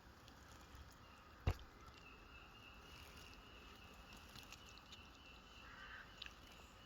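Near silence: faint outdoor ambience with one sharp click about a second and a half in and a thin, faint, high steady tone lasting several seconds.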